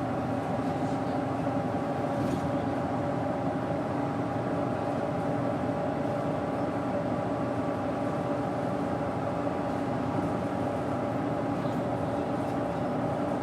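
Doosan GE12Ti turbocharged natural-gas bus engine of a Daewoo BS110CN running steadily, its hum holding an even pitch with no revving up or down.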